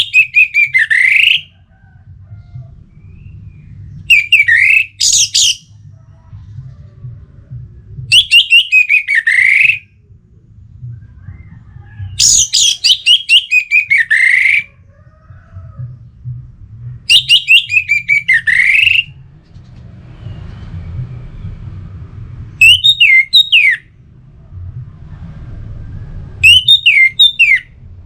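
Orange-headed thrush singing vigorously: seven loud phrases of rapid, high, repeated notes, each ending in a falling sweep, about every four seconds, the last two phrases shorter. A faint low rumble runs underneath.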